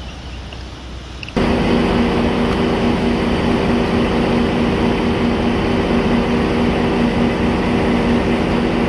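Steady, loud machine running with a low hum, typical of an idling diesel locomotive at a rail yard. It comes in abruptly about a second and a half in, over quieter outdoor noise.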